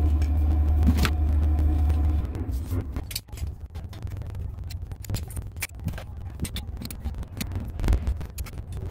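Steady low mechanical rumble with a faint hum that stops about two seconds in, followed by scattered light clicks and taps of parts being handled.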